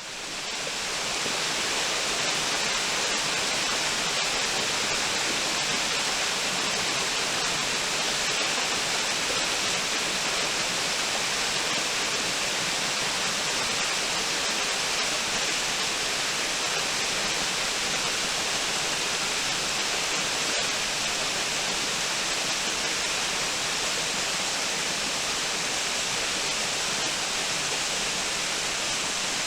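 Waterfall: a steady, even rush of falling water that fades up from silence right at the start.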